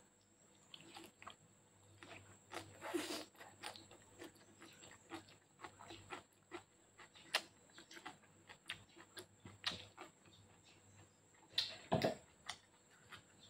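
Close-up chewing of spaghetti and raw lettuce: a steady run of wet mouth clicks and smacks, with a louder, longer mouth noise about three seconds in and another near the end.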